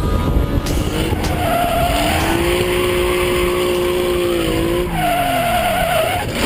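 Car sliding with its tyres squealing, the engine held at high revs and then dropping away about five seconds in.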